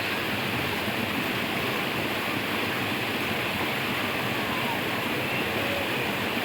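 Rushing stream water, a steady, even rush, with a few faint whistled calls over it.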